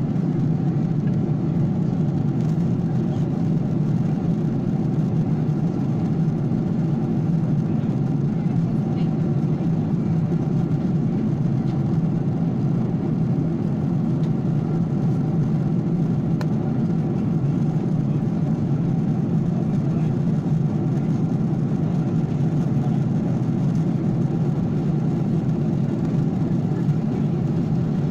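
Steady, even drone of an airliner in flight, heard from inside the passenger cabin.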